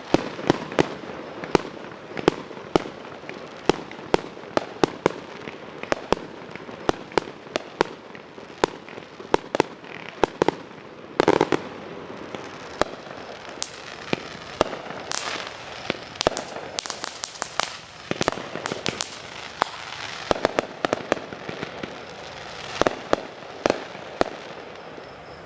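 Fireworks going off in a rapid, unbroken string of sharp bangs and pops, often two or three a second.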